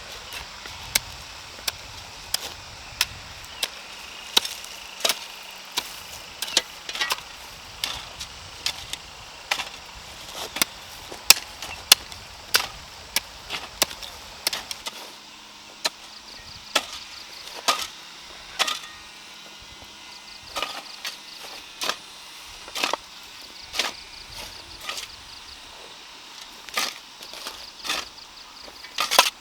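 Repeated chopping strikes from a hand tool, sharp single blows at uneven intervals, roughly one to two a second.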